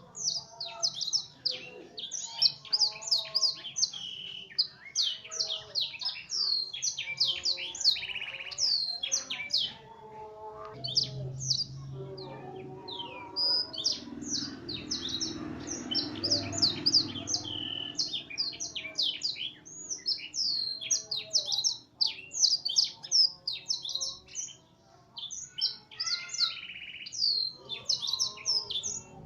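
F1 canary singing a long, unbroken song of rapid chirps, sweeps and trills. The song is filled with blackthroat phrases learned from a master recording.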